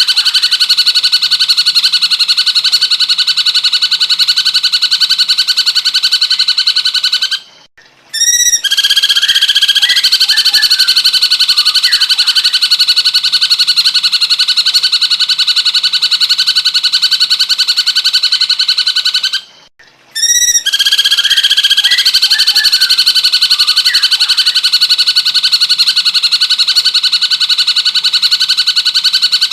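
Looped recording of a cucak cungkok singing: a loud, very rapid steady trill, broken twice by a brief pause with a short call, used as song-training audio for magpie robins.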